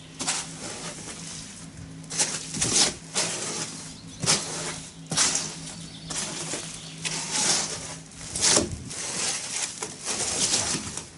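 A shovel scraping and tossing sand and gravel in repeated strokes, over the steady low hum of a running concrete mixer.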